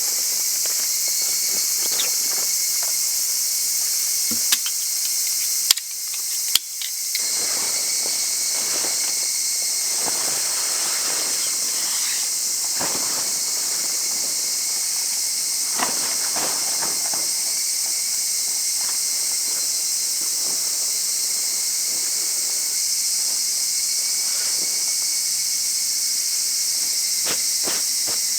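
A steady, dense, high-pitched chorus of insects with a thin steady shrill note beneath it, and scattered light clicks throughout. About six seconds in there is a brief drop with a few sharp clicks.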